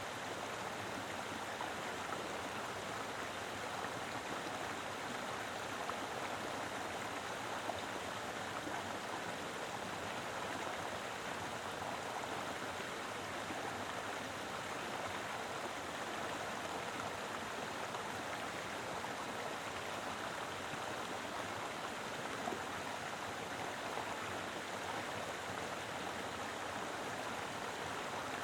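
Mountain river flowing steadily over rocks, a constant rush and burble of water.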